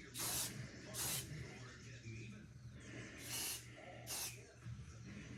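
Aerosol can of automotive etching primer spraying in four short hissing bursts: near the start, about a second in, and twice more between three and four and a half seconds in.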